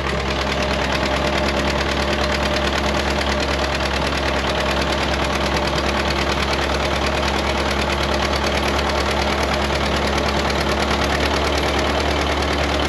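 John Deere 730 tractor's two-cylinder engine running steadily while pulling a grain drill drilling wheat, its low firing pulse even throughout.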